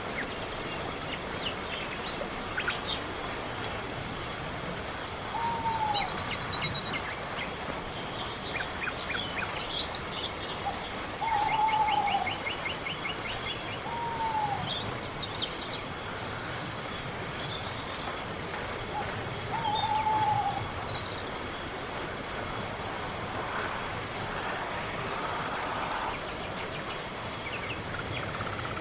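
Crickets chirping in a steady, even rhythm of about three chirps a second. Four short rising-then-falling calls from another animal cut in, along with a few brief trills.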